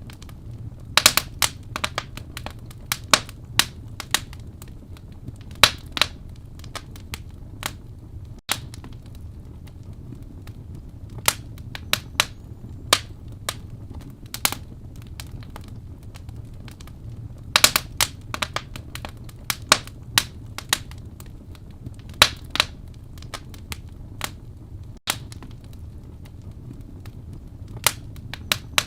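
Wood fire burning in a fireplace: sharp crackles and pops at irregular intervals, some in quick bursts of several, over a steady low rumble of the flames.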